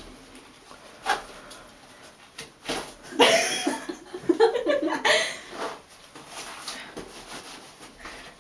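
People laughing, with some indistinct talk, in a burst from about three seconds in to past the middle, after a couple of short knocks.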